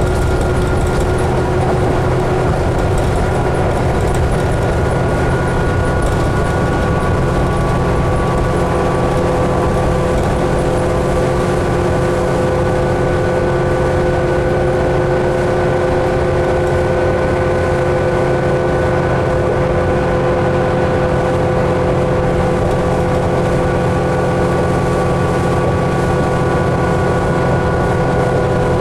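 Inside a 2011 New Flyer D60LFR articulated diesel bus cruising at a steady speed: a constant drone of engine and road noise with several steady whining tones held over it.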